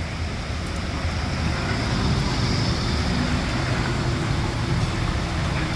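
Steady rumble of street traffic: a road vehicle running close by, growing a little louder about a second in.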